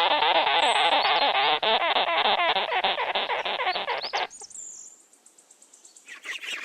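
Sugar gliders chirping and chattering rapidly, many high calls overlapping, stopping suddenly about four seconds in. After a short quiet, other high chirping starts near the end.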